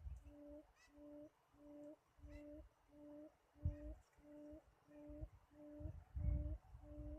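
A low hooting call repeated evenly, about two notes a second, each note short and steady in pitch. Low rumbling comes and goes underneath, and a few faint high chirps are heard.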